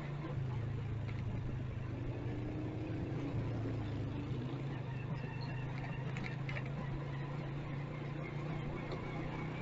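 Motorcycle engine running steadily while riding in city traffic, with the hum of surrounding traffic.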